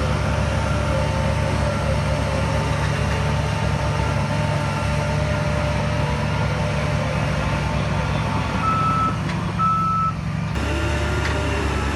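Heavy diesel earth-moving machinery running steadily with a deep rumble. Two short high reversing-alarm beeps sound about nine and ten seconds in, and the engine sound changes abruptly shortly after.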